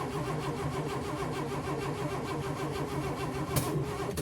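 1958 AMC Rambler's 195.6 OHV six-cylinder being cranked over by the starter in an even rhythm without catching, with one sharp pop near the end before the cranking stops abruptly. The engine won't fire; the owners have found no fuel reaching the fuel pump.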